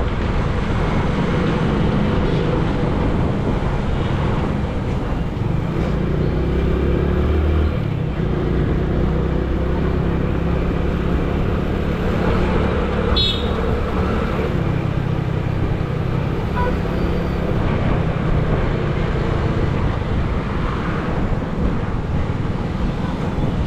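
Road traffic: car and motorcycle engines running steadily, with a brief high-pitched chirp about halfway through.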